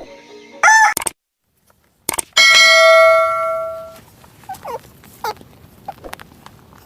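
A short call from domestic fowl, then about a second of dead silence. A loud, steady ringing tone with many overtones follows for about a second and a half and fades out, and faint scattered animal calls come after it.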